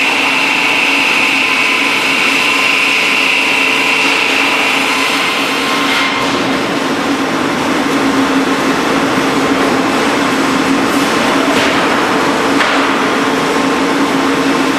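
Üstünkarlı beam-sawing machine running under power with a loud, steady machine noise. A high whine gives way to a lower steady tone about five seconds in, and a few sharp knocks come in the second half.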